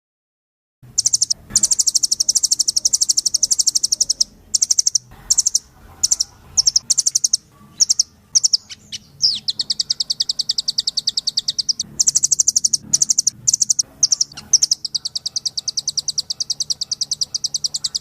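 A rambatan loreng, a nuthatch, singing vigorously: rapid high trills of repeated notes in runs of a few seconds, broken by short pauses. One longer trill about halfway through reaches lower in pitch.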